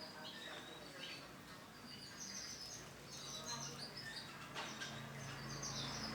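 Female canary chirping: short, high call notes in quick clusters. A low steady hum comes in about halfway and grows louder near the end.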